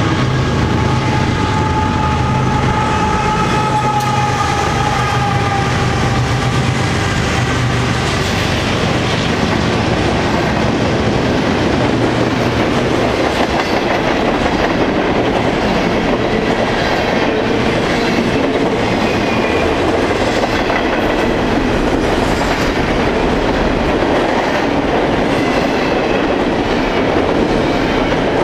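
A BNSF freight train passing close by. For the first several seconds the diesel locomotives run with a steady low drone, then the cars roll past with continuous rumbling and clickety-clack over the rail joints.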